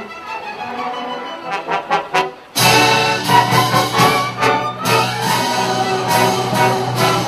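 Youth symphony orchestra playing, brass to the fore. A softer passage with a few sharp accents breaks off briefly, then the full orchestra comes in loud about two and a half seconds in, with repeated accented chords.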